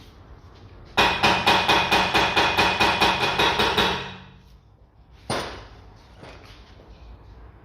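Hammer striking metal in a quick run of about fifteen blows, around five a second, each with a metallic ring, followed about a second later by one more blow.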